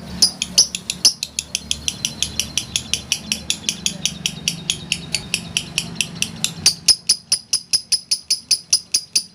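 Lovebird giving its long continuous 'ngekek' chatter: a fast, unbroken string of sharp, shrill chirps, about five a second. A low steady hum underneath stops about seven seconds in, after which the chirps stand out louder.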